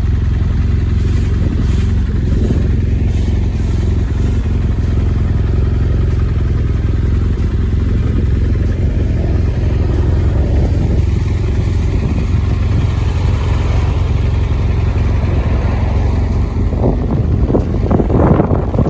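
On-board sound of a BMW R1200R boxer-twin motorcycle being ridden: a steady low rumble of engine and wind, growing a little louder and brighter near the end.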